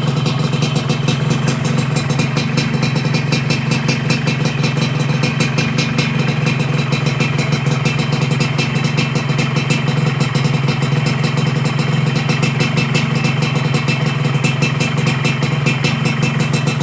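Yamaha RX-King's single-cylinder two-stroke engine running steadily at idle through an aftermarket 'udang lobster' expansion-chamber exhaust. It is a fast, even exhaust beat, with no revving.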